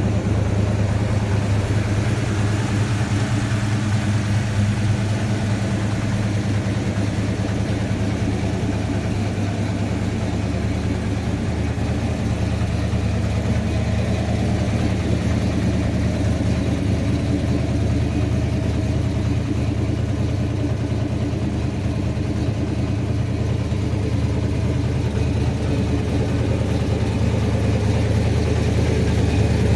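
Pontiac 400 cubic-inch (6.6-litre) V8 idling steadily with a low, even rumble.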